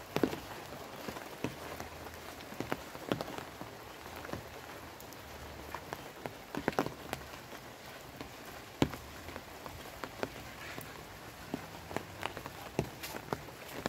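Light rain falling steadily, with a soft hiss and irregularly spaced sharp drops landing close by.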